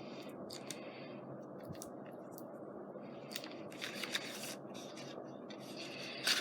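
Glue stick rubbed across paper in short scratchy strokes, with a few light clicks of paper being handled; the longest strokes come in the middle and just before the end.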